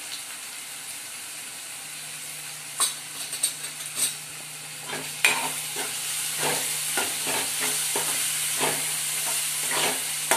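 Onion-tomato masala frying in oil in a metal kadhai, sizzling steadily, while a metal spatula stirs it. The spatula scrapes and clicks against the pan, a few strokes about three seconds in, then quick repeated scrapes from about halfway through.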